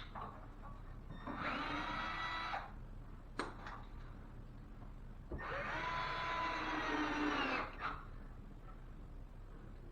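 Cordless drill-driver running in two bursts, a short one and then a longer one, with a sharp click between them, typical of driving screws into wood backing.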